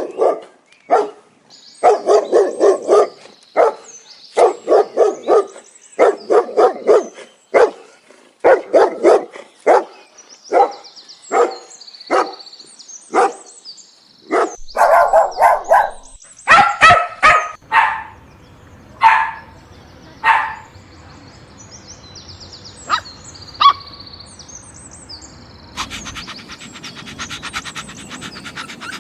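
Puppies barking in quick bursts of several barks at a time. About halfway through, the barks give way to fewer, higher-pitched yelps that thin out to a few single yaps.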